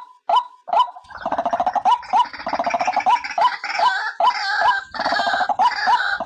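White-breasted waterhen calling: sharp repeated notes, about three a second, then from about a second in a loud, rapid gurgling chatter over which the notes keep sounding.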